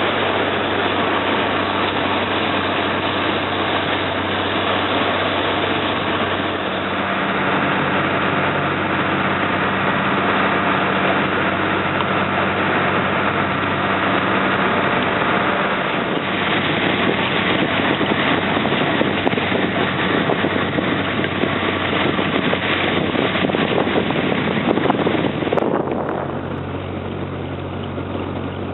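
Slow riverboat's engine running steadily, a constant hum under a dense wash of noise; it becomes quieter and duller near the end.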